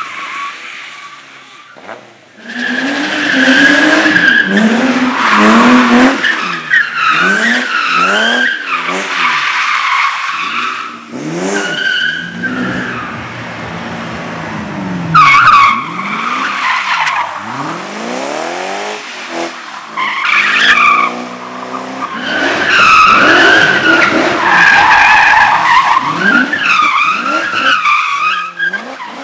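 Slalom race cars with engines repeatedly revving up and dropping off between the gates, while their tyres squeal through the turns. The sound grows loud about two seconds in, and a short, louder burst comes about halfway through.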